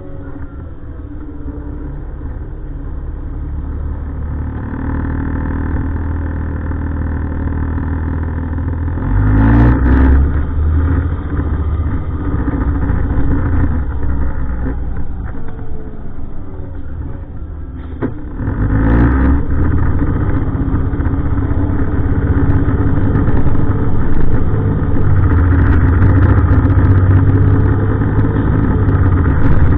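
Heavy diesel refuse truck engine running and gradually getting louder, with two brief louder surges about ten and nineteen seconds in.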